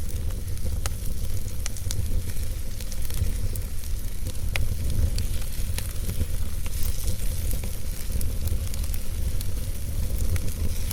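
Wood fire burning in a fireplace: a steady low rumble and hiss with scattered sharp crackles and pops from the burning logs.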